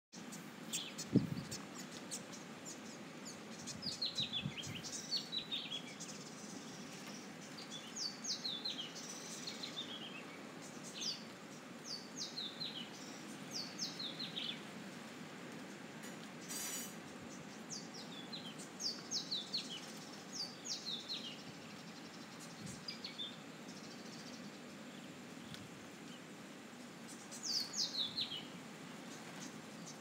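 Birdsong: short phrases of quick, falling chirps repeating every second or two, over a steady low background rush. A low thump sounds about a second in.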